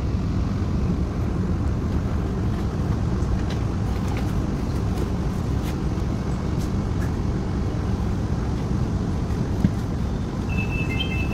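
Steady low rumble of a public-transport vehicle in motion, with faint scattered ticks and a brief high-pitched beep near the end.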